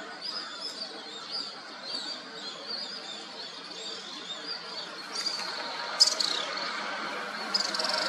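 Birds chirping in the morning: many short, high chirps repeating several times a second over a steady background hiss. About six seconds in comes a sharp, louder call that falls in pitch, and near the end a rapid buzzy trill.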